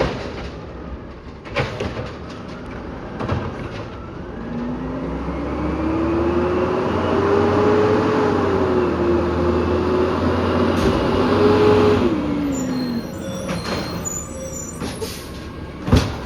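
Peterbilt 320 automated side-loader garbage truck working its arm: the engine revs up with a rising whine that holds for several seconds and then drops away, as it does while powering the hydraulics. There are a couple of knocks early on and a loud thump near the end.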